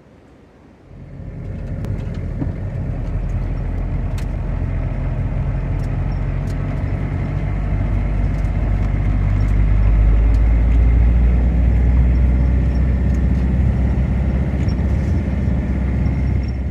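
A heavy motor vehicle running close by: a steady low engine drone that starts about a second in, grows louder toward the middle, then cuts off abruptly.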